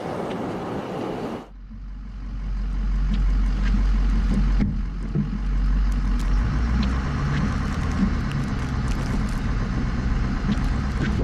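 Truck engine and road noise, a steady low rumble. It changes abruptly about a second and a half in.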